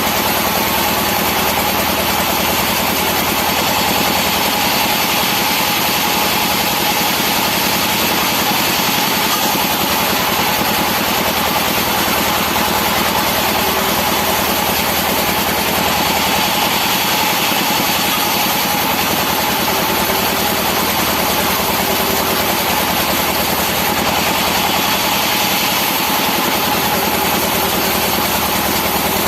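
Engine-driven sawmill machinery running steadily, a loud, unchanging mechanical noise with a constant hum.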